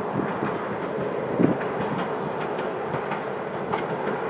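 Former Keihan 3000 series electric train crossing a steel girder bridge: a steady rumble of wheels on rails, with occasional sharp clacks over the rail joints.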